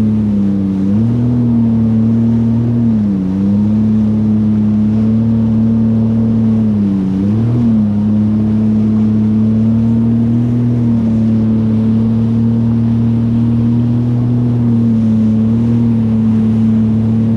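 Jet ski engine running steadily at speed, its pitch dipping briefly twice, about three and seven seconds in, as the throttle is eased and picked up again, over a hiss of water and wind.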